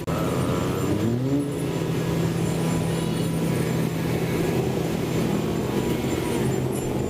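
An engine running steadily, with a brief rising rev about a second in.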